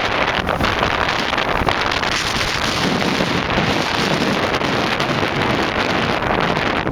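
Strong storm wind blowing hard and buffeting the microphone, loud and steady throughout.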